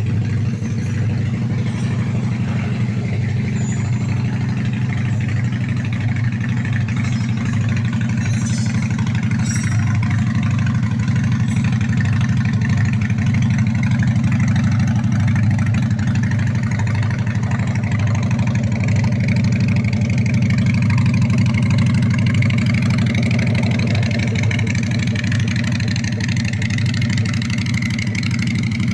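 Vehicle engine idling steadily through its exhaust, a low, even exhaust note that holds for the whole stretch.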